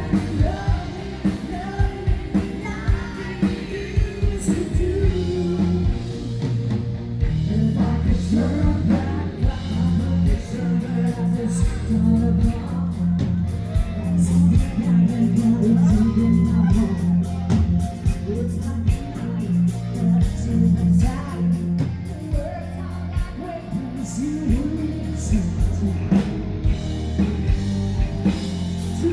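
A live band playing a rock party song, with singing over a steady drum beat and bass.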